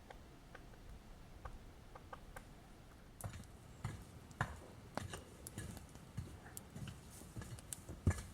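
Scattered small clicks and light knocks at an irregular pace, coming more often from about three seconds in, with one sharper knock near the end.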